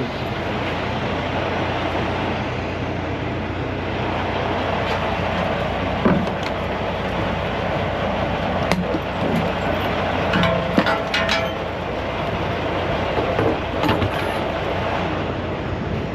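Semi-truck running at low speed, heard from inside the cab as a steady rumble, with several short clunks and rattles through the middle.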